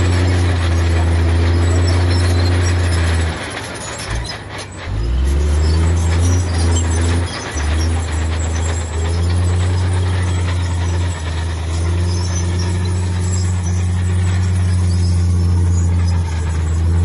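Heavy diesel engine of earthmoving machinery running under steady load, with a brief drop in level about three seconds in that comes back up under two seconds later.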